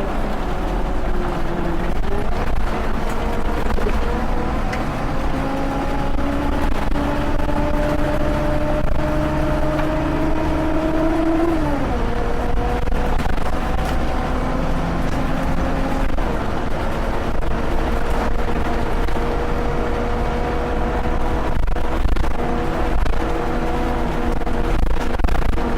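Scania OmniLink bus engine pulling away, its note climbing steadily for about ten seconds, then dropping sharply about twelve seconds in as the gearbox changes up, and running on at a near-steady note.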